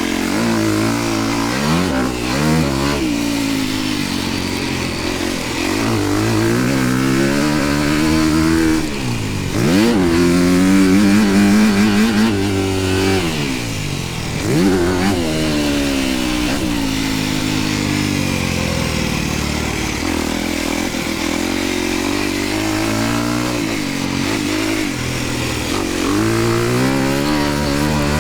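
Dirt bike engine revving up and down as it is ridden, its pitch climbing and falling over and over as the throttle is opened and closed, with a sharp drop off the throttle about nine seconds in before it revs hard again.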